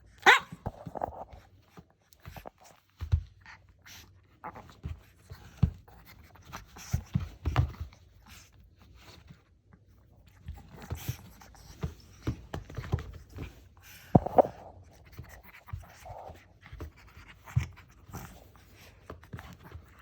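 A Shih Tzu panting and snuffling, with irregular soft knocks, clicks and rustles of movement close to the microphone.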